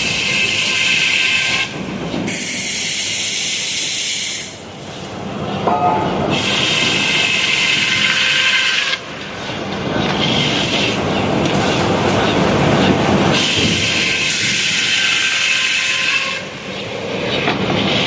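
Sawmill running and sawing a log: a steady engine-driven din with a high, hissing cutting whine that comes and goes in stretches of a few seconds, with several abrupt changes.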